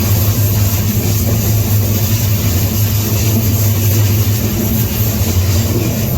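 Moving freight train heard from aboard: a loud, steady low rumble with a rushing noise over it.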